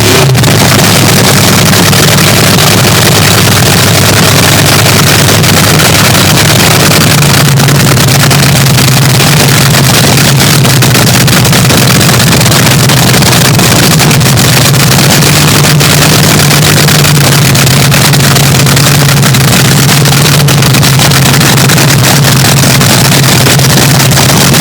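Swamp Rat III, a nitro-burning front-engine dragster, cackling at idle: a very loud, steady, crackling engine note with no letup. Its low drone grows stronger about seven seconds in.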